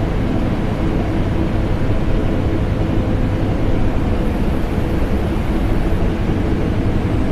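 Vacuum cleaner running steadily, mixed with the hum of an air conditioner: a constant deep drone with a few faint steady tones in it and no change throughout.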